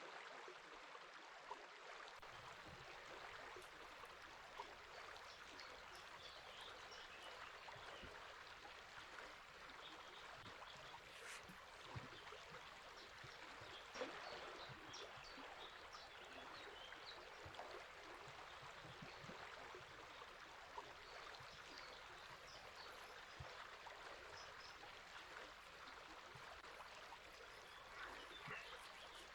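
Faint, steady rush of flowing river water, with scattered short bird chirps high above it and an occasional soft tick.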